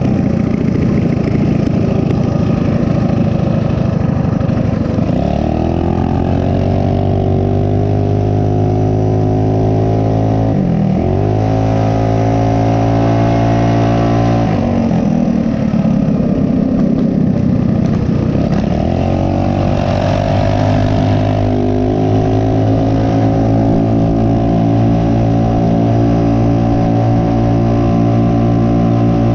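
Small single-cylinder four-stroke mini bike engine running at high revs under way, its pitch dropping and climbing back four times as the throttle is let off and reopened, then holding steady.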